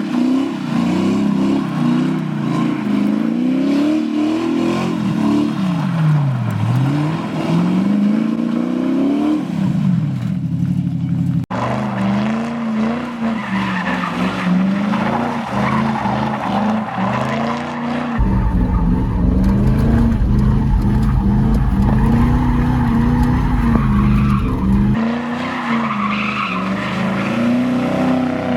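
A muscle car's engine revving up and down over and over while doing donuts, with its rear tires squealing and skidding on the pavement. A heavy low rumble sits under it for several seconds about two-thirds of the way through.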